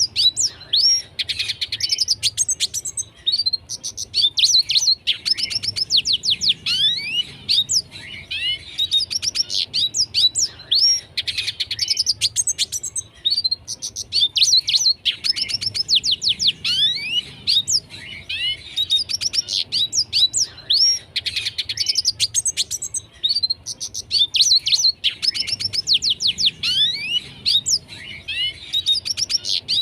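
Red siskin singing vigorously: a continuous high twittering song of rapid notes and quick rising and falling whistles, delivered in phrases with brief pauses every few seconds.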